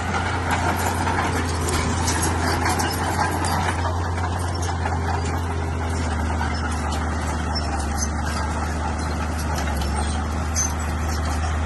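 Bulldozer's diesel engine running steadily with a constant low drone, with light metallic clinks over it.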